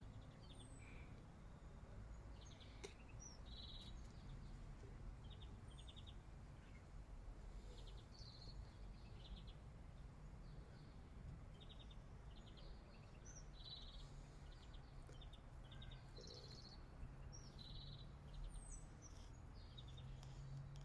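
Faint small-bird calls: short trilled chirps repeated every second or so, with a few higher gliding notes, over a low steady background rumble.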